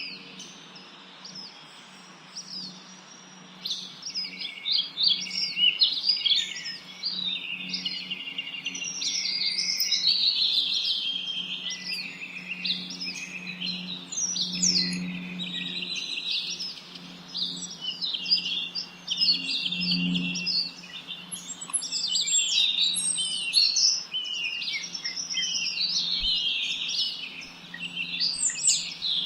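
A dense chorus of many small songbirds chirping and twittering over one another without pause, with a steady low hum underneath.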